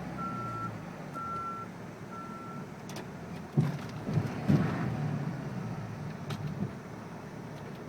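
Backup alarm beeping three times, about once a second, over the steady running of a truck's diesel engine. A few dull low thumps follow about midway.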